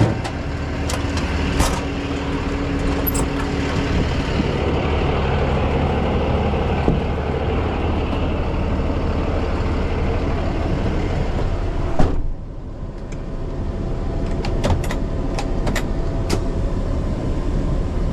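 Truck engine and road noise heard from inside the cab while driving, with scattered light clicks. A sharp knock comes about twelve seconds in, after which the noise is a little quieter.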